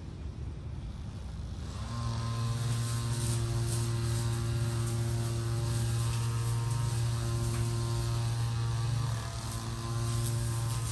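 A steady mechanical drone with a strong low hum and a ladder of overtones, starting about two seconds in and dipping briefly near the end.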